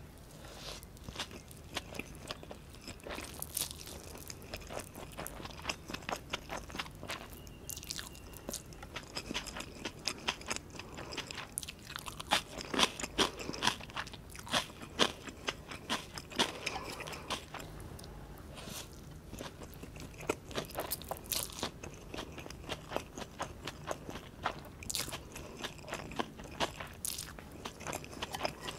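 Close-miked chewing of fried instant noodles with egg and bok choy: a steady run of small wet mouth clicks and soft crunches, loudest around the middle.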